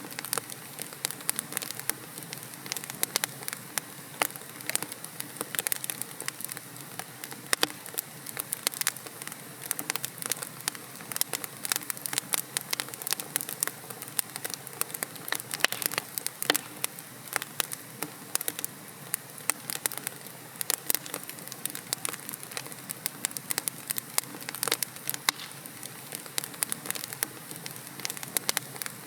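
Wood logs burning in a fireplace: dense, irregular crackling and popping over a steady hiss.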